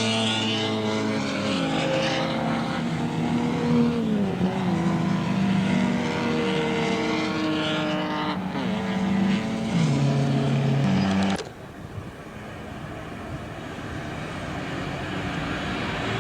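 Racing sports car engines running hard, their note dropping in pitch twice as they change gear. About eleven seconds in the engine sound cuts off abruptly, leaving a quieter rushing noise that slowly builds.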